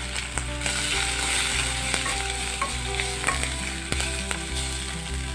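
Pounded coconut and green chili mixture frying in hot tempering oil in a metal kadai, sizzling as a spatula stirs it, with frequent sharp clicks and scrapes of the spatula against the pan.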